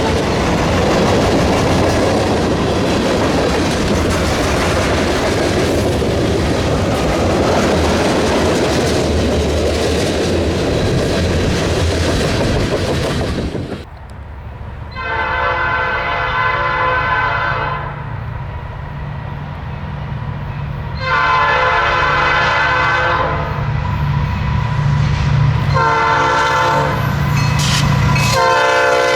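A freight train's cars rolling past with steady wheel and rail noise, then a diesel locomotive's multi-chime air horn sounding the grade-crossing signal: two long blasts, a short one and a long one, over the rumble of the engine.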